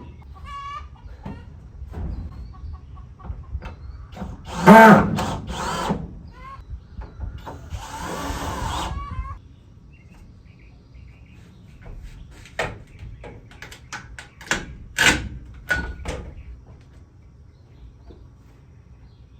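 A power drill runs in short bursts, driving fasteners through a wooden barn siding board, and sharp knocks follow in the second half. Chickens cluck near the start.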